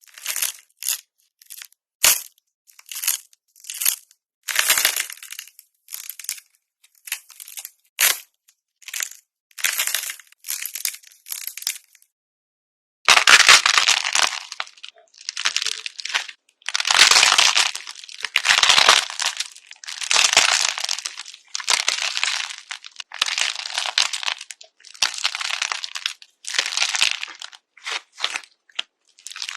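Crackling and crunching in a run of short bursts, sparse at first, then after a brief pause longer, denser bursts about a second long each.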